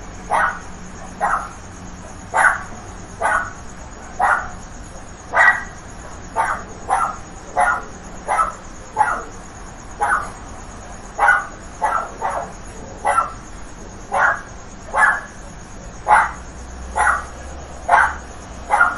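A dog barking over and over in short single barks, a bit more than one a second, at a steady pace.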